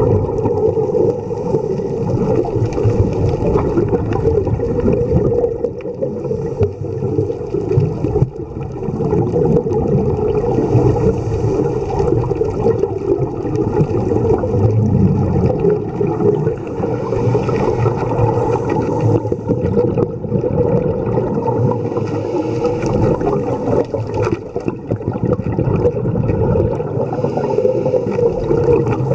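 Muffled underwater sound picked up through a dive camera's housing: a steady low rumble with gurgling bubble noise that swells every few seconds, typical of a scuba diver's regulator breathing.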